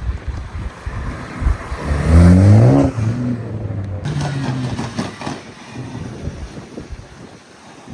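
A car engine accelerating hard. Its pitch rises over about a second to the loudest point, then drops back and runs steadier before fading away.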